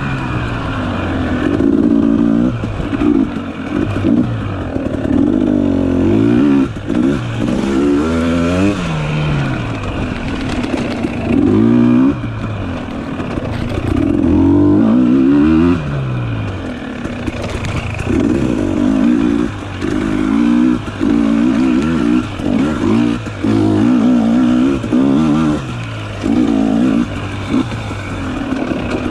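Dirt bike engine revving up and down over and over as the throttle is opened and chopped, its pitch climbing and dropping every second or two.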